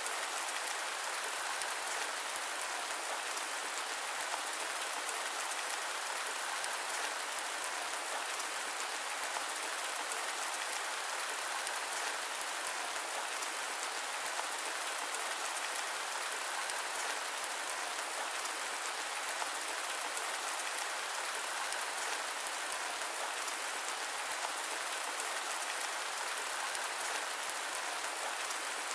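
Steady rain falling, an even, unbroken hiss with no thunder and no low rumble, blended with white noise.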